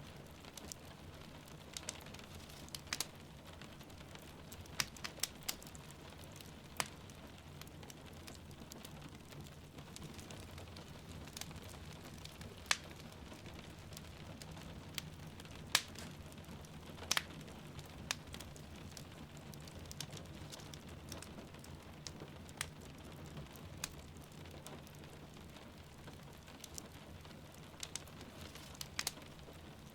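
Wood fire crackling in a fireplace, with sharp pops at irregular moments a second or a few seconds apart, over steady rain.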